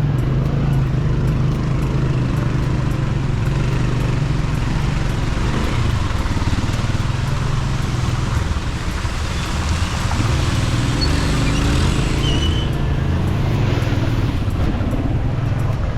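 Motorbike engine running steadily as it is ridden, with a constant rush of road noise.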